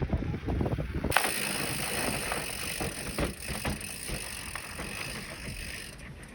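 Electric mountain bike being ridden on a dirt road: a low wind rumble and rattling knocks, then an abrupt switch about a second in to a brighter hiss of tyres on the surface with scattered clicks, fading toward the end.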